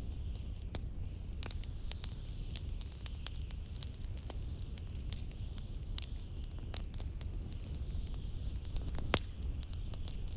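Wood fire crackling in a fireplace, with many irregular sharp pops, over a steady low rumble of blizzard wind.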